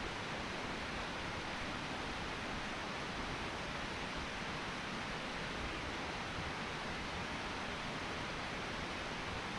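Steady rushing of a cascading mountain creek: an even hiss of falling water with no breaks.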